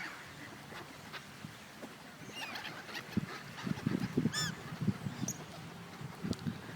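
Seagulls giving a few short squawking calls, the loudest one about four seconds in, over low thumping noise.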